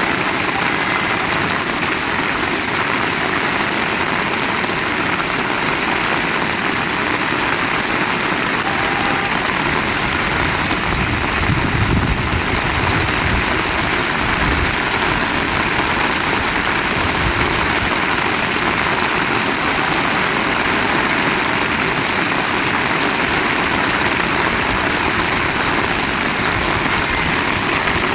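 Heavy rain falling steadily, a dense, even hiss. A low rumble swells briefly about twelve seconds in.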